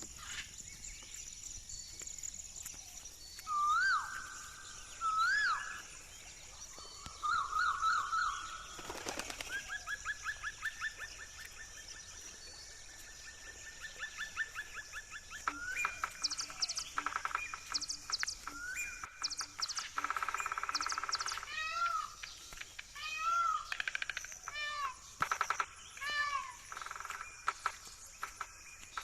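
Birds calling outdoors: repeated short whistled notes that swoop up and down, and stretches of rapid trilling, over a steady high-pitched hiss.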